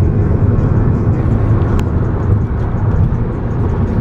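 Steady low rumble of road and engine noise inside a moving car's cabin, with a single brief click about two seconds in.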